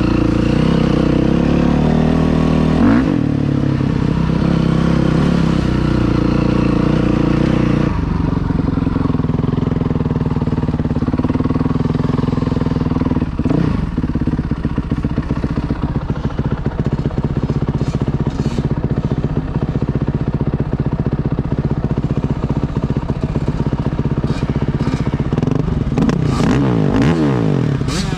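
Off-road dirt bike engine running throughout, its revs rising and falling with the throttle, with quick rev swoops about three seconds in and again near the end.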